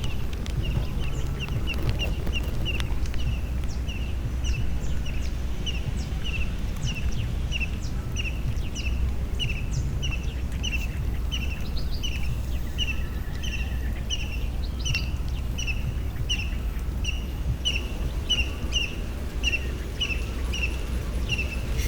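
A bird repeating a short, high chirp about twice a second at an even pace, over a steady low rumble.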